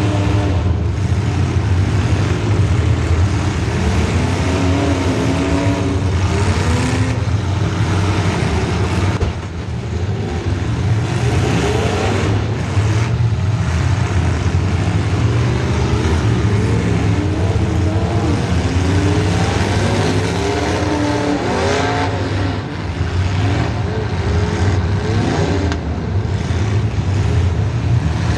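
Demolition derby car engines running loud, revving up and falling back again and again over a steady low engine drone, with two brief dips in loudness.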